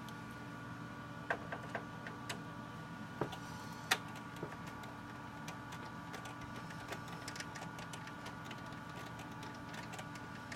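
Small scattered clicks and taps of a screwdriver working the screws and plastic case of an Xbox One console, most of them in the first four seconds, over a steady background hum.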